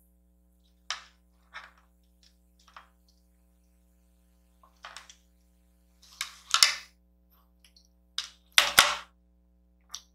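Close-miked eating sounds: scattered short clicks and smacks of chopsticks and mouth working at kimchi noodles, with two louder, longer bursts about six seconds in and just before the end.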